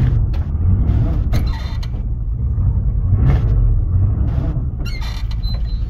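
1981 Chevy K30's small-block 350 V8 running cold and rich, a steady low rumble broken by several short rough bursts of noise.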